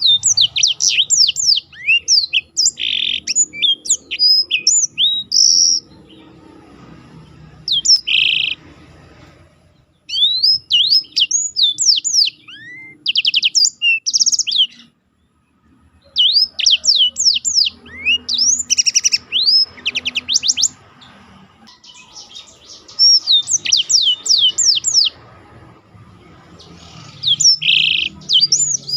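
Black-throated canary (black-throat) singing: phrases of rapid, sweeping high whistles and fast rolling trills, broken by short pauses of one or two seconds.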